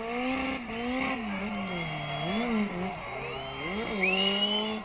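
Drift car's engine revving up and dropping back again and again as it slides through the corner. A high rising squeal comes in near the end and is the loudest part.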